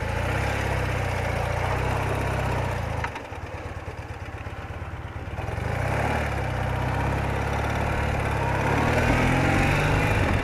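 BMW R80RT's air-cooled flat-twin engine running. It drops back about three seconds in, then picks up again and runs louder near the end.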